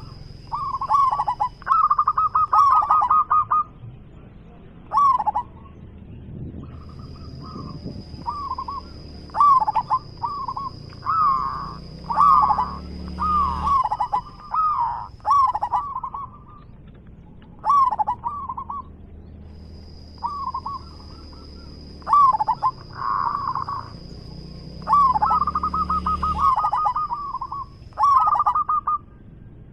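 Zebra doves (perkutut) singing: phrases of short, falling coos near the same pitch, some opening with a fast rolling trill, repeated every second or two. A steady high whine comes and goes behind them.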